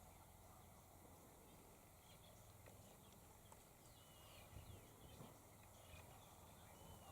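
Near silence: faint outdoor quiet with a few faint, short bird chirps and downward whistles near the middle.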